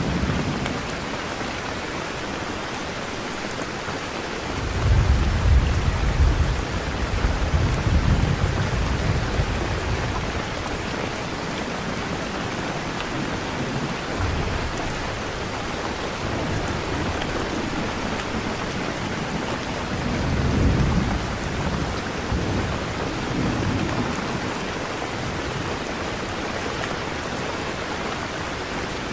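Steady heavy rain with deep rolls of thunder: a long, loud rumble about five seconds in that lasts several seconds, and shorter ones about twenty seconds in.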